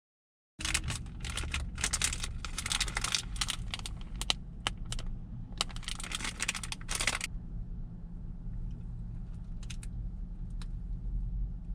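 Rustling and clicking of things being handled, dense for about six seconds and then dying down to a few faint clicks, over a steady low rumble.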